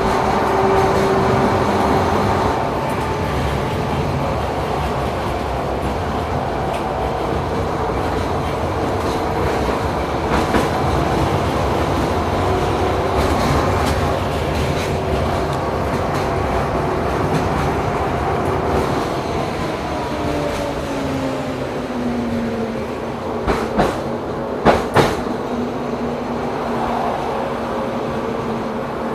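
LM-99K tram running on rails: a steady rumble with whining motor tones that drop in pitch about twenty seconds in as it slows. Near the end come a few sharp knocks of the wheels over rail joints.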